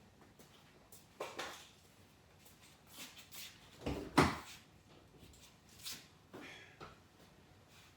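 Several separate knocks and clunks of tools and parts being handled during work on a car's front axle, the loudest about four seconds in.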